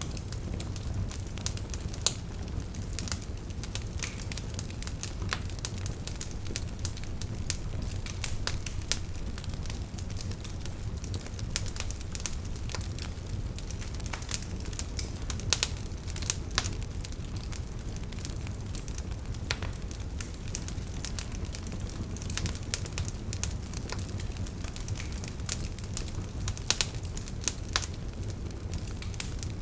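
Campfire of burning firewood crackling, with irregular sharp pops over a steady low rush of the flames.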